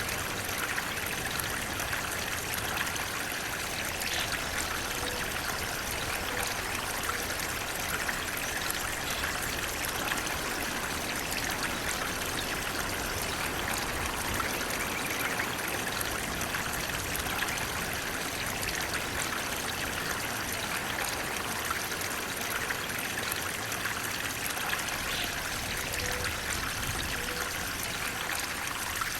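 Flowing water running steadily, an even rushing and trickling that never lets up.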